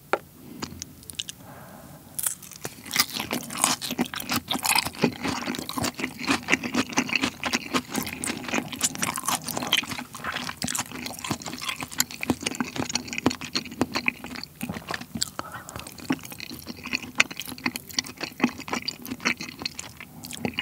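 Close-up chewing of a mouthful of raw beef tartare (yukhoe) with crisp pear slices and radish sprouts: crunching with many quick, irregular sharp clicks, starting about two seconds in.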